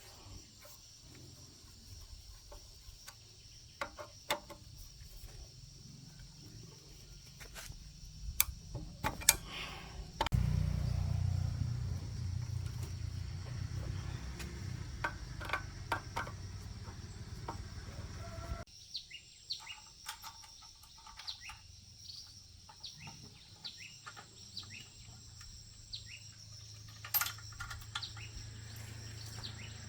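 Birds chirping over scattered sharp metallic clicks and clinks of hand tools, with a steady low hum that starts suddenly about a third of the way in and stops suddenly about eight seconds later.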